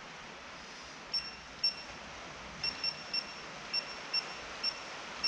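Heavy rain hissing steadily. About a second in, a run of about ten short, high-pitched pips starts, irregularly spaced, louder than the rain.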